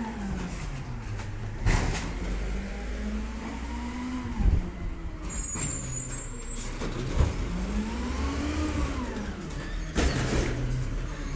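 Diesel engine of a Peterbilt 320 side-loader garbage truck revving up and down repeatedly, its pitch rising and falling about three times. Sharp metallic bangs cut in about every two and a half seconds.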